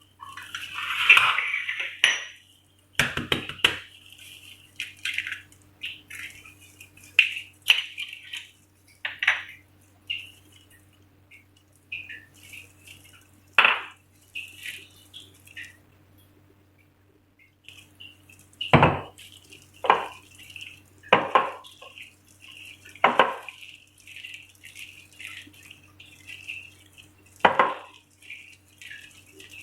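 Spoon clinking and scraping against a bowl while chicken pieces are mixed into a wet marinade of cornflour, egg and spices, with about a dozen sharp knocks at uneven intervals.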